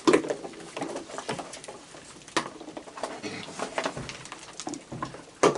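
A group of raccoons eating cookies: irregular crunching, clicking and shuffling, with a few faint short calls among them.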